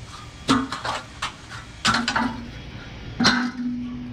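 Metal grill parts being handled and knocked together: three sharp metallic clanks about a second and a half apart, each ringing briefly, with lighter taps between them.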